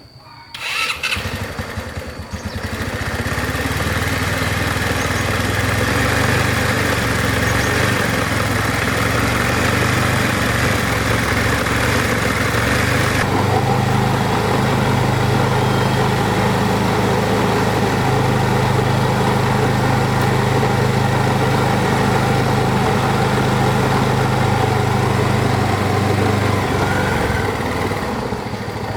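Honda CB750 inline-four motorcycle engine starting up about a second in, then running steadily.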